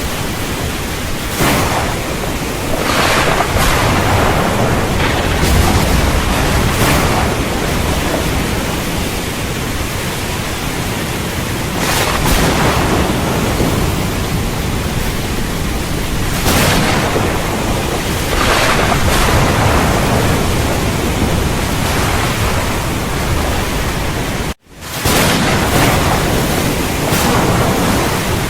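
Steady heavy rain with thunder cracking and rumbling several times over it. The sound drops out for a moment about twenty-five seconds in.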